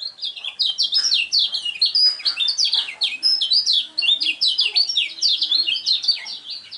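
Common iora (kecial kuning) singing a fast, continuous run of short, sweeping high notes, one after another with barely a break, tailing off near the end.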